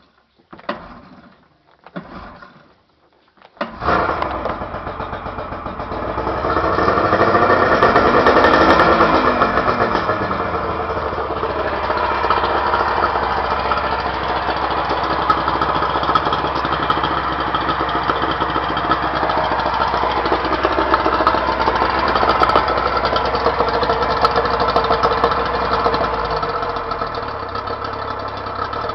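Yamaha 40 hp two-stroke outboard with Autolube oil injection cold-starting. It is cranked in short bursts, catches about four seconds in and revs up, then settles into a steady fast idle that drops lower near the end.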